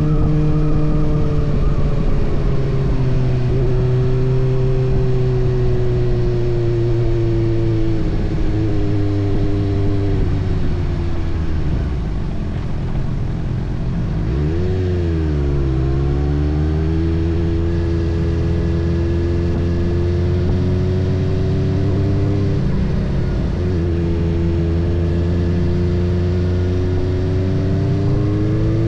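Kawasaki ZX-6R's inline-four engine running under way, holding a steady pitch for stretches with shifts in pitch at several points, and a sharp drop then rise about halfway through, with wind rush over the bike.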